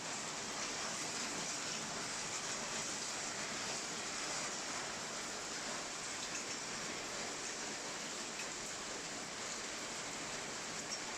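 Steady rain falling during a thunderstorm, an even hiss with a few scattered drop ticks; no thunder.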